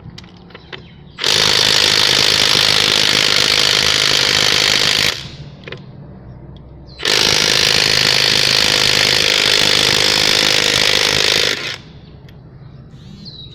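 Milwaukee M12 stubby cordless impact driver hammering on a car's wheel nut in two bursts of about four seconds each, working to break loose a nut that a shop's air impact gun did up tight.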